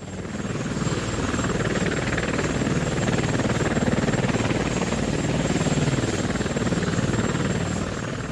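Light helicopter running, steady rotor and piston-engine noise; it fades in over about the first second. The aircraft is the VM-4 Dzhmil, a four-seat helicopter powered by two piston engines.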